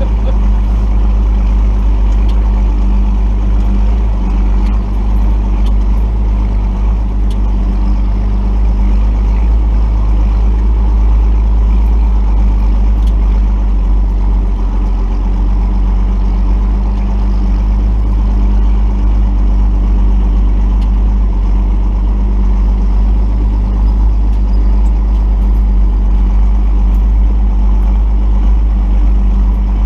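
Cummins 5.9-litre inline-six turbo diesel of a 1990 Dodge D250 pickup running steadily at low, even engine speed.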